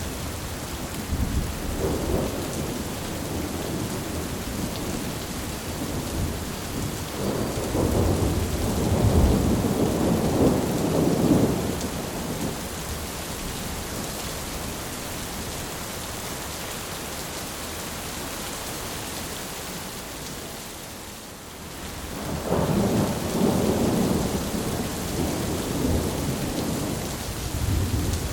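Thunderstorm: steady heavy rain hissing, with thunder rolling in long low rumbles, once about a quarter of the way in and again for most of the last quarter.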